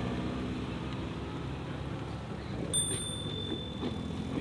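Low rumble of a car engine running, fading as the car moves off. A short high ding sounds a little past halfway through.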